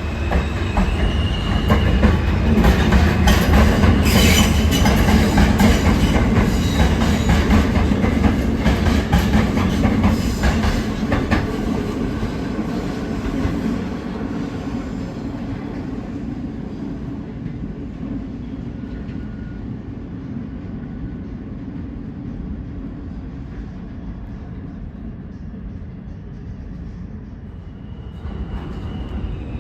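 NYC subway R160 train running through the station, wheels clicking over rail joints with some squeal, loudest in the first dozen seconds and then fading away to a low rumble.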